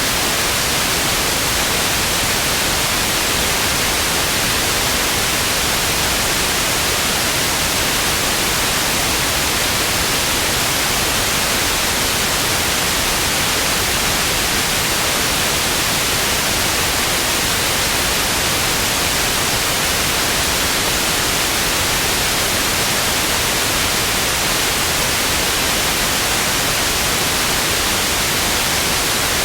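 Television static: a loud, steady hiss with no changes or breaks.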